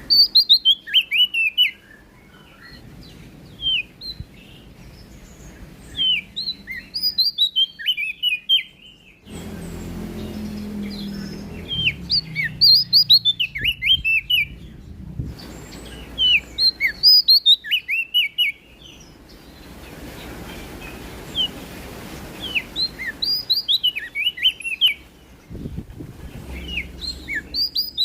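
Prenjak daun, a small Lombok songbird, singing loud phrases of quick, sharply falling chirps that come in bursts of a second or two, repeated every few seconds.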